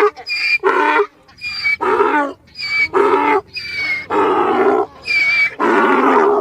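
Donkey braying: a long run of hee-haws, short high-pitched notes alternating with longer, lower ones, which cuts off suddenly at the end.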